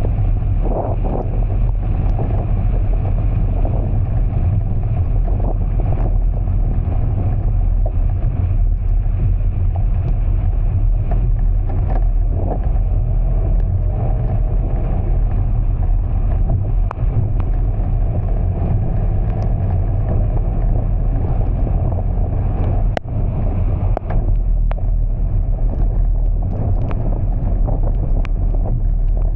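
Steady low rumble and noise of a car driving through heavy rain, with scattered sharp ticks throughout.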